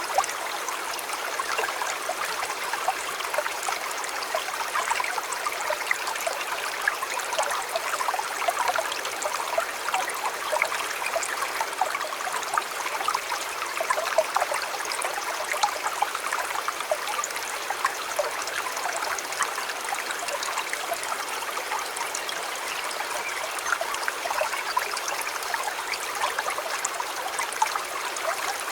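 River water flowing steadily, a constant babble of small splashes and gurgles.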